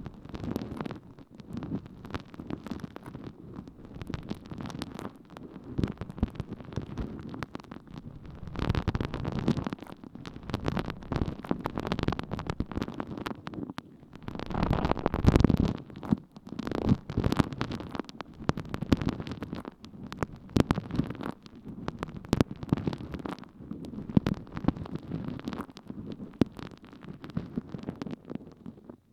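Water-soaked sponge rubbed and pressed against an ear microphone, giving close, wet squelching and crackling strokes, with louder swells about a third of the way in and near the middle.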